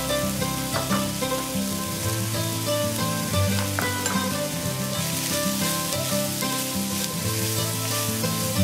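Chicken pieces sizzling as they fry in olive oil in a cast-iron pan, while diced onion and celery are tipped in and stirred with a wooden spoon. Background music with changing notes plays throughout.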